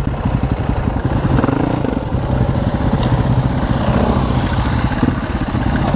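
Enduro dirt bike engine running with rapid, rough firing pulses, the revs rising and falling a couple of times as it is ridden.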